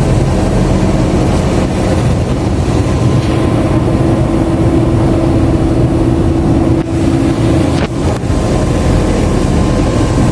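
Commuter electric train running on the rails, heard from inside the carriage: a steady loud rumble. A steady low whine joins in for a few seconds midway, and a few sharp knocks come near the end.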